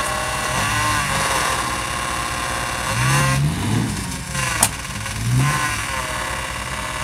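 Engines of a Chevrolet K5 Blazer and a stuck Nissan Patrol running under load during a tow-strap recovery, revving up and down several times. There is one sharp knock about four and a half seconds in.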